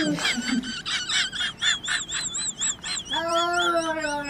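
Animal calls: a high warbling call that wavers about four times a second over rapid clicking, then, about three seconds in, a long steady cat yowl.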